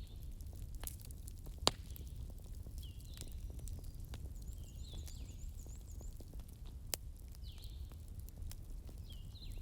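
Wood fire burning: scattered sharp crackles and pops over a low steady rumble, with the loudest pop a little under two seconds in and another near seven seconds. Faint high chirps recur in the background.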